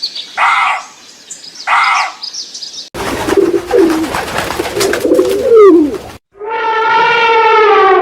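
A run of different animal calls: three short pitched calls evenly spaced, then a noisier stretch with gliding cries, then one long, slightly falling call near the end.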